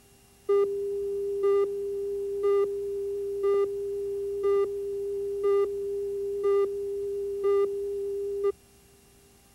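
Steady electronic test tone with a louder beep once a second, about eight beeps, then cutting off sharply: the countdown leader tone laid down ahead of a broadcast commercial on the tape.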